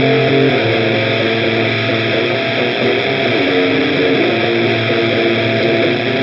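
Electric guitar played through the Olinthus Cicada, a tiny Tube Screamer-style overdrive pedal: a lightly distorted lead line of held notes over a steady low part.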